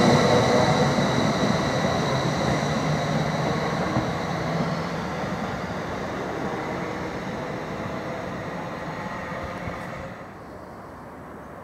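A Class 333 electric multiple unit moving away along the line, a high whine over a rumble of wheels on rail, fading steadily. About ten seconds in the sound drops to a quieter outdoor background.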